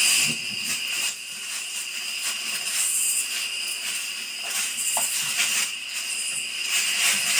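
Steady high-pitched insect chorus in woodland, with a short faint chirp about five seconds in.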